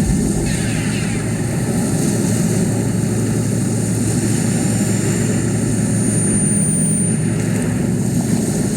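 A live rock band holding a loud, steady wall of distorted sound from bass, guitars and synthesizer, with no clear beat, captured through a phone microphone. A few falling sweeps sound near the start.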